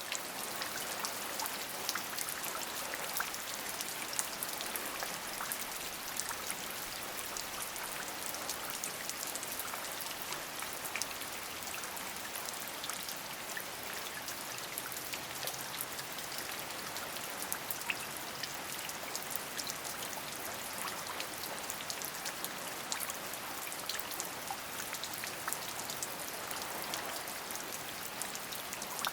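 Steady rain: an even hiss dense with many distinct, sharp drop ticks, unchanging throughout.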